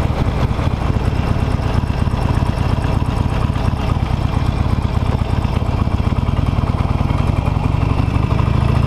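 Harley-Davidson Nightster's V-twin engine running at low revs, heard from the saddle. Near the end its pitch starts to rise as the bike gently accelerates.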